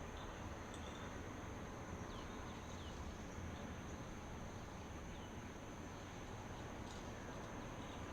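Faint, steady hiss of outdoor ambience with a continuous high-pitched insect drone, and a few short, faint falling chirps scattered through the middle.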